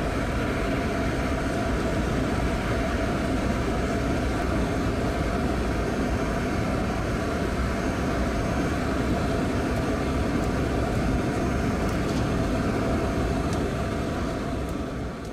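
Boeing 737-700 on approach, heard from inside the passenger cabin: a steady rushing drone of engines and airflow, with faint steady tones in it.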